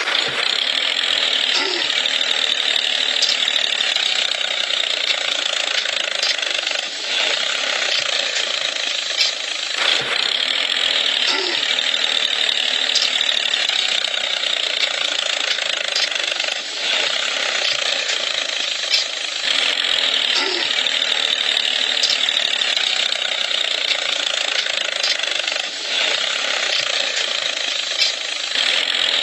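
A small geared motor running steadily, as on a DIY model tractor.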